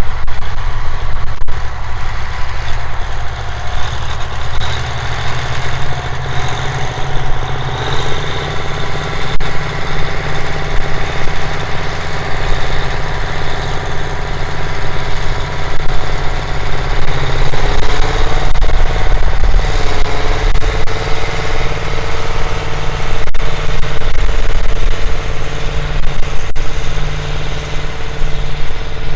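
V8 diesel engine of a classic Massey Ferguson tractor running loud and steady, its engine note shifting in pitch about two-thirds of the way through and then settling.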